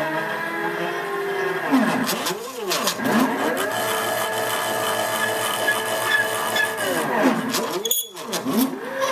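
CNC machine's stepper motors whining as the axes move, the pitch rising and falling as they speed up and slow down, holding steady through the middle stretch. About 8 seconds in there is a brief drop and a sharp click as the motion changes.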